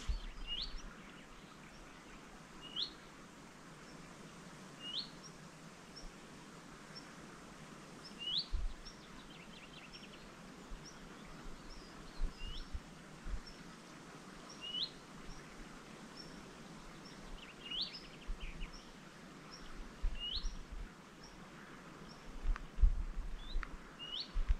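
A woodland bird repeating a short rising call every two to four seconds, with fainter high peeps in between. A few low bumps come near the end.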